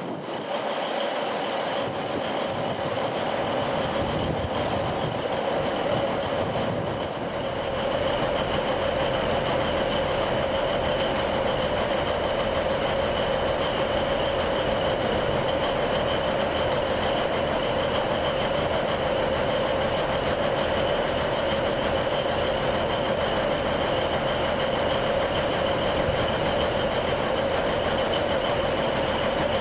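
Train running at steady speed, a continuous rumble with a steady whine over it, growing slightly louder about eight seconds in.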